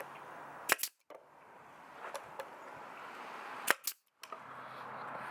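Pneumatic nail gun firing twice, about three seconds apart, each shot a sharp pop.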